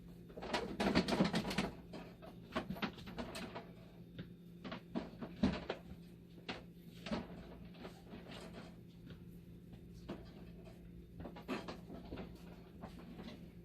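Hands working on the dialysis machine during reassembly: irregular knocks, clicks and rattles of its parts being handled, with a flurry of clatter about a second in and a sharp knock about five seconds in, over a steady low hum.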